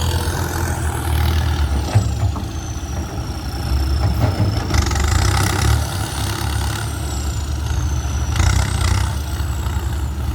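Kubota M6240SUH tractor's diesel engine running through an aftermarket exhaust pipe, with a steady low rumble. A high whistle falls slowly in pitch twice.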